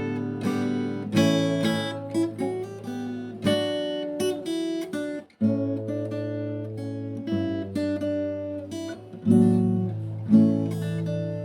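Background music of acoustic guitar, plucked chords with each note ringing and fading over low sustained notes.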